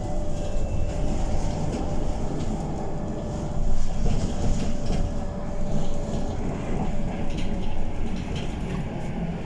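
Scania K230UB city bus, with its five-cylinder diesel engine, running on the road with a steady low rumble and a held whine, heard from on board. The level swells briefly about four seconds in.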